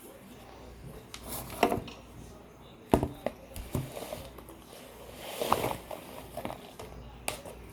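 Close-up crunching and chewing of hard, crunchy frozen chunks: a few sharp crunches spread irregularly, with a busier cluster about two-thirds of the way through.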